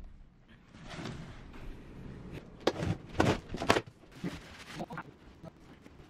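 Cardboard shipping box being opened by hand: rustling and scraping of cardboard and packing tape, with a run of sharp tearing and knocking sounds about three seconds in.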